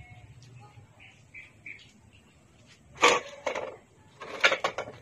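Small birds chirping faintly in short notes. About three seconds in, and again about four and a half seconds in, come a few loud, sharp sounds.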